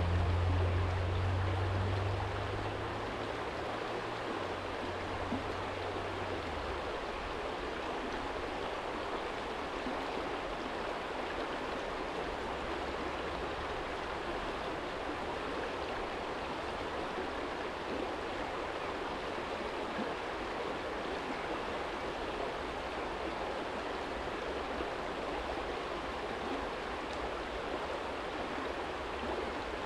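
Small stream flowing steadily over a stony bed, an even rush of water. A low hum under it fades out over the first several seconds.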